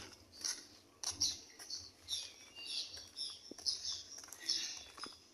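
Small birds chirping and twittering in the trees, many short high calls repeating.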